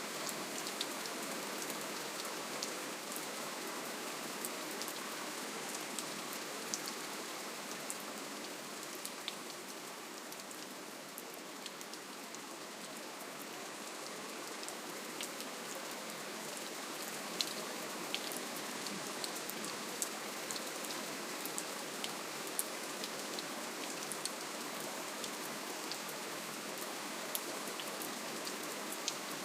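Steady gentle rainfall, an even hiss with scattered sharp drips of individual drops hitting a surface.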